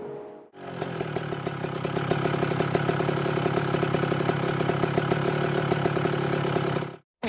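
Motorcycle engine running steadily at idle with a fast, even pulse. It starts about half a second in and cuts off suddenly near the end.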